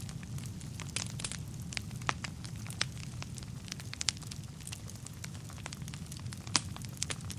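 Wood fire burning in a fireplace: a steady low rumble of flames with irregular sharp crackles and pops from the burning logs, one louder pop near the end.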